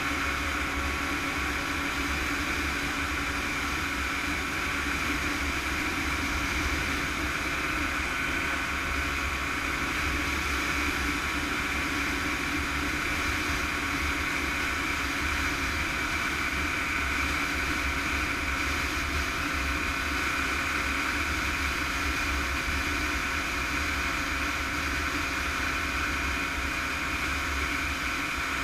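Yamaha YZ125 two-stroke single-cylinder engine running at steady revs, with a low wind rumble on the microphone.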